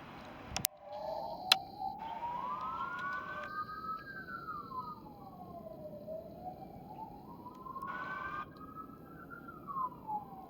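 Emergency vehicle siren wailing, its pitch rising and falling slowly twice. Two sharp clicks sound in the first two seconds.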